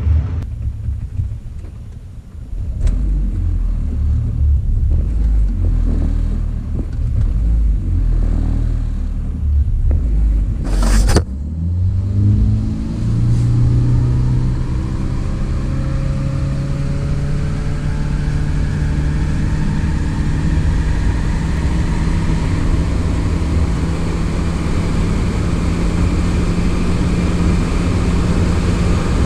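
Car accelerating: a steady engine drone holds one pitch while a fainter whine climbs slowly in pitch for about ten seconds. Before that there is a low rumble, broken by a sharp click about eleven seconds in.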